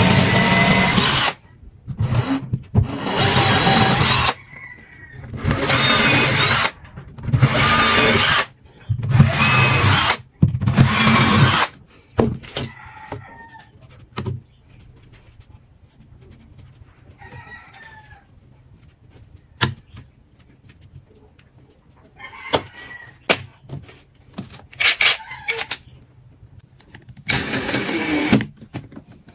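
Electric drill run in about seven short bursts of a second or two each, then once more near the end. Chickens and a rooster call faintly in the gaps between.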